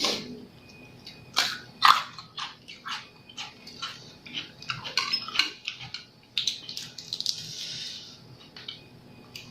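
Close-up eating sounds of seafood papaya salad with squid and blood cockles: a spoon clicking and scraping on the dish, with wet chewing and smacking between the clicks. About six and a half seconds in there is a longer slurp of the salad's juice. The sharpest clicks come at the very start and twice about a second and a half to two seconds in.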